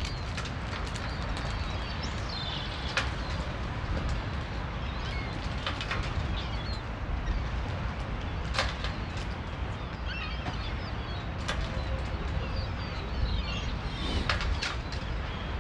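Wind buffeting the microphone in a steady low rumble. Faint bird chirps come and go over it, and a few short sharp clicks are scattered through.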